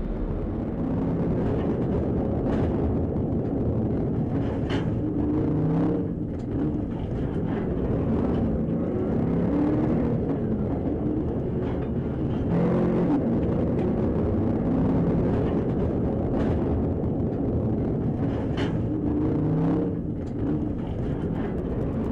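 A car driving: steady engine and road noise.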